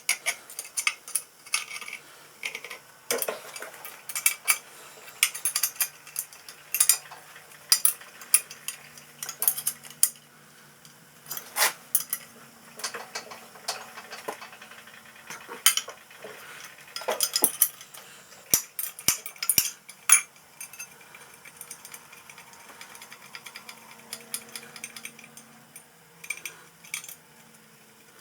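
Metal parts and hand tools clinking and clanking, handled and set down in quick, irregular knocks.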